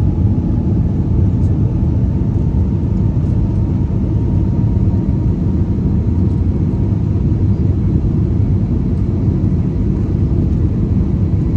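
Airbus A320neo jet engines and airflow heard inside the passenger cabin as a steady low rumble.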